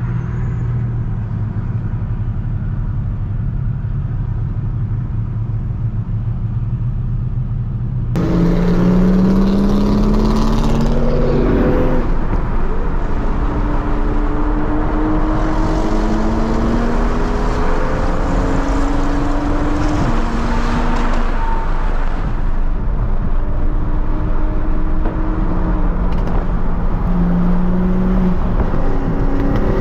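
Tuned Toyota Supra MK5's B58 turbocharged inline-six: a steady low drone at first, then about eight seconds in it goes to hard acceleration, the engine pitch climbing and dropping back at each of several upshifts.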